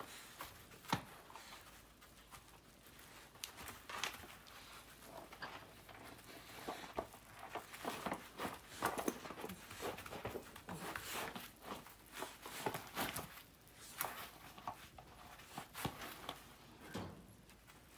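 A dog playing with a football on its own: irregular knocks, scuffs and patter of paws and ball, some louder bumps about a second in and in the middle.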